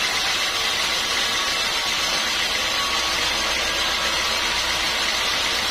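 Sawmill machinery running steadily, a constant mechanical din with no breaks or changes.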